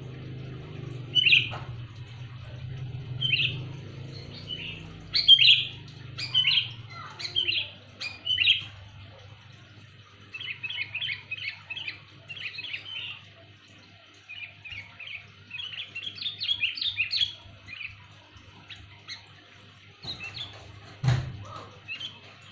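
Sooty-headed bulbul calling loudly: a string of short, clear whistled notes, then two runs of fast chattering notes. A single sharp knock near the end.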